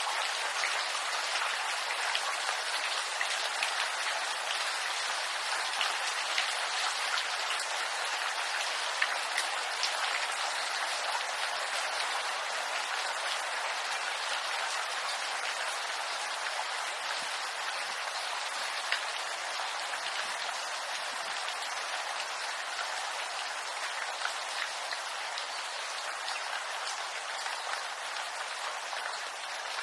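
Steady rain falling on bamboo leaves: a dense, even hiss of many small drop impacts.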